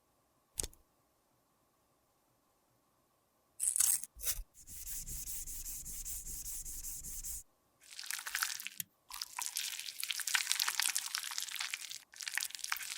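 Makeup product being worked by hand: a single click, then a few short scrapes, a steady scraping stretch of about three seconds, and from about halfway on a run of crunchy, crackling scrapes and crushes.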